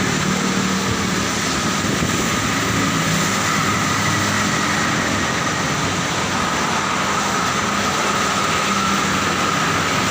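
Steady road traffic noise: a continuous wash of passing engines and tyres with a low engine hum.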